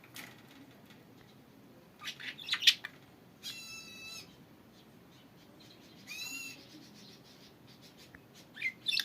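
Pet budgies calling: a cluster of quick, sharp chirps about two seconds in, then two longer buzzy, raspy calls in the middle, and a few more chirps near the end.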